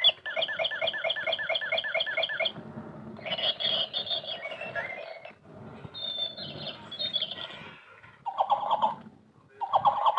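A bird calling: first a fast run of about a dozen repeated, even chirps at roughly five a second, then harsher, noisier chattering, and a few short squawks near the end.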